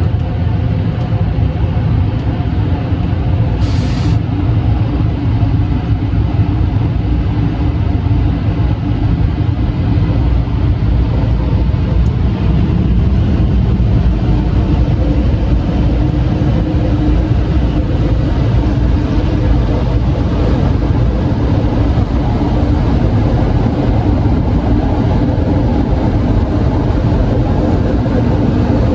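Steady, loud mechanical rumble with a low hum running under it, and a brief high hiss about four seconds in.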